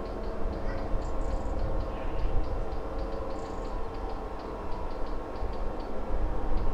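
Class 55 Deltic diesel locomotive running, a steady low rumble with a droning set of engine tones. A regular high ticking about four times a second runs over it.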